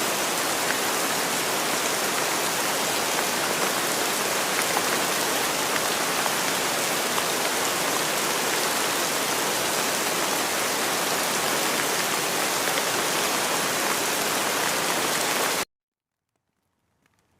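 Steady rain falling, a dense even hiss of raindrops. It cuts off suddenly about three-quarters of the way through, leaving near silence.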